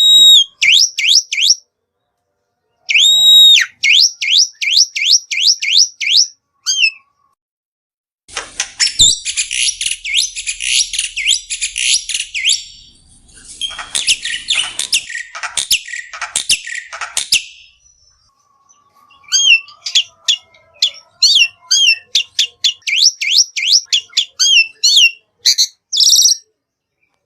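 Black-winged starling (jalak putih) singing: runs of fast repeated whistled notes, then a harsh rasping chatter lasting several seconds in the middle, then quick chirping notes again near the end.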